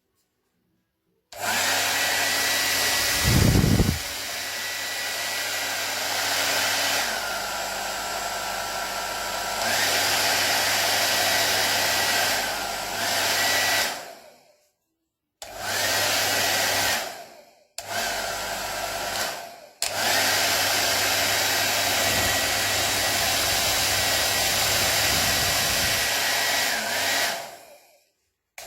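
HALOVIE ionic foldable hair dryer switched on and running with a steady rush of air and a thin motor whine. It is switched to a lower-pitched setting for a few seconds twice, switched off and on again several times, and fades out near the end. About three seconds after it starts, there is a brief low rumble.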